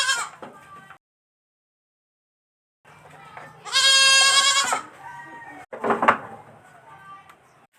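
Baby goat bleating: the end of one high bleat at the start, then after about two seconds of dead silence a second loud bleat about four seconds in. A sudden loud thump follows about six seconds in.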